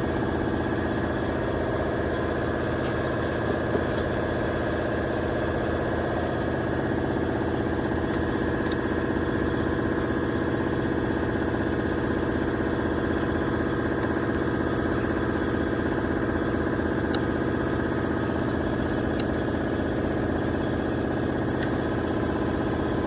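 BMW car engine idling steadily at an even, unchanging speed.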